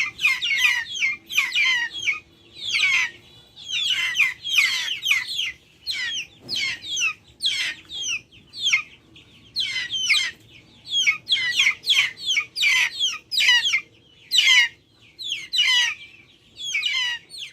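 Backyard chickens calling in a string of short, high peeps that slide downward in pitch. They come about two a second, in clusters with brief pauses between.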